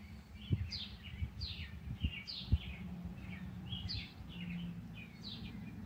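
Small birds chirping: a run of short, quick, downward-sliding chirps repeated several times a second. Beneath them is a low steady hum, with a few sharp knocks in the first half.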